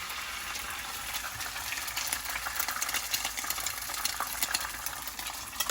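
Butter sizzling and crackling in a frying pan on low heat as eggs fry, a steady hiss with many fine pops, busier in the middle.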